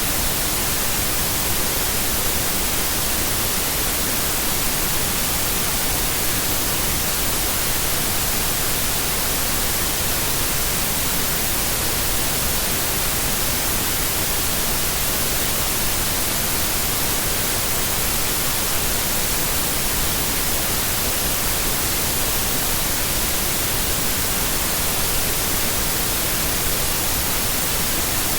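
Steady white noise: an even, unbroken hiss with no change in level.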